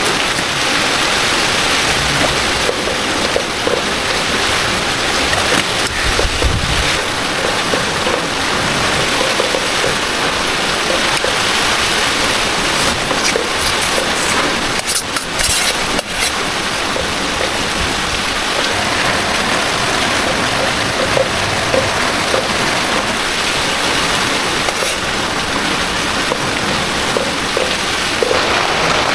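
Heavy rain falling steadily, mixed with the rush of floodwater: a dense, even hiss.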